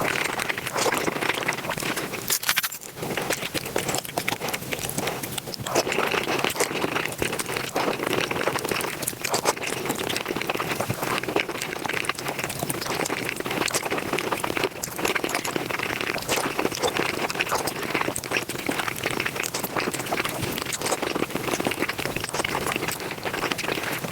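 Close-miked eating sounds played back at five times normal speed: chewing and mouth noises run together into a dense, rapid crackling of clicks and smacks.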